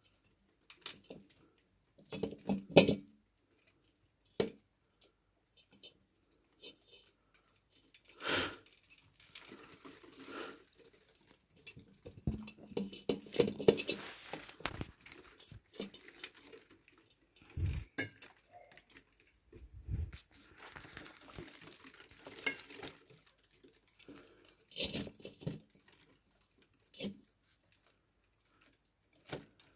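Scattered scuffling, scratching and rustling with light clattering and a few sharp knocks, the loudest a little under 3 seconds in, from a cat scuffling after mice.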